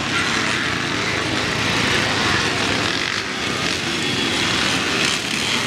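Vintage motocross motorcycle engines revving hard on the track.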